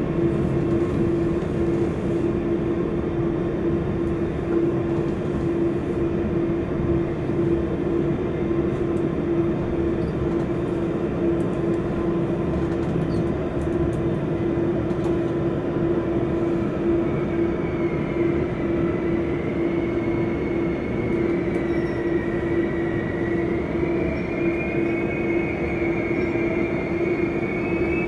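Electric commuter train running, heard from inside the carriage: a steady rumble with a constant motor hum. From about two-thirds of the way in a high, wavering wheel squeal sets in and climbs slightly in pitch as the train curves in toward the station platform.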